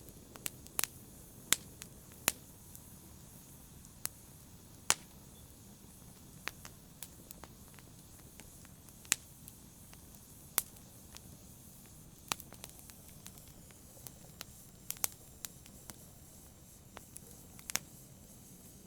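Wood fire crackling: irregular sharp pops and snaps over a faint low hiss, a few pops much louder than the rest.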